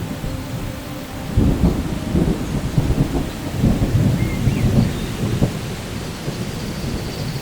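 Steady rain with a rolling rumble of thunder that starts about a second and a half in, crackles for several seconds and then dies away.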